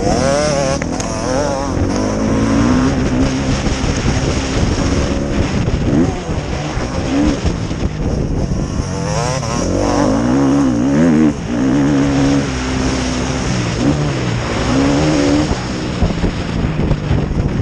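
Several motocross motorcycle engines racing, their pitch repeatedly rising and falling with throttle and gear changes as the bikes pass and overlap.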